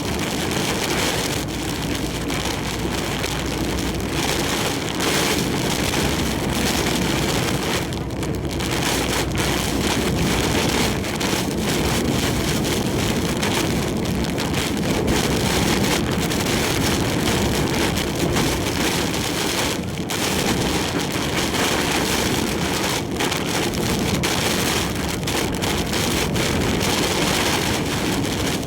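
Heavy typhoon rain and wind beating on a large truck as it drives along an expressway, a steady dense rush that eases slightly twice.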